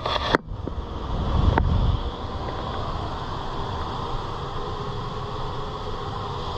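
Central air conditioning system starting up and running steadily after a faulty thermostat was replaced. A few clicks at the start, a low rumble swelling about a second in, then an even whooshing hum.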